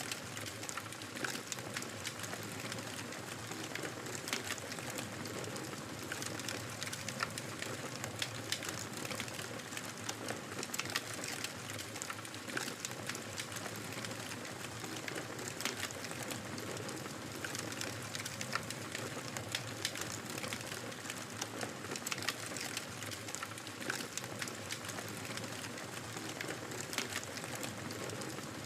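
Fire in a fireplace crackling: a steady hiss of flames dotted with frequent small, sharp pops and snaps.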